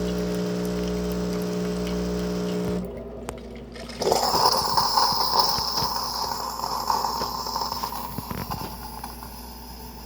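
Bosch Tassimo T47 pod coffee maker at the end of its brew cycle: the pump hums steadily, then stops about three seconds in. A second later a loud hissing, spluttering purge of the pod and spout starts and slowly fades.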